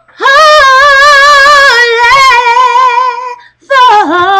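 A high voice singing a long drawn-out note with wide vibrato, stepping down in pitch partway through; after a short break a second note slides down and settles into vibrato.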